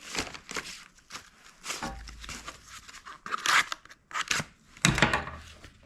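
Plastic packaging of an engine top end gasket kit being cut and torn open, with irregular crinkling and crackling.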